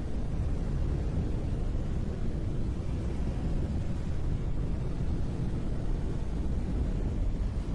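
Brown noise: a steady, deep hiss weighted toward the low end.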